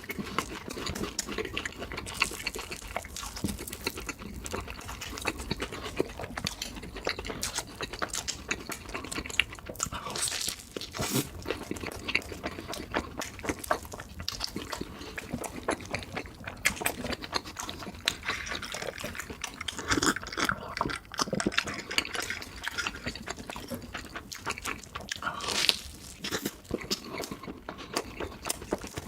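Close-miked eating sounds: continuous wet chewing, smacking and slurping of food, a dense run of quick mouth clicks, played at double speed.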